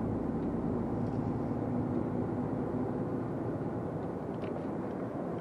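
Truck engine and road noise heard from inside the cab while driving, a steady hum with an engine note that holds through the first few seconds.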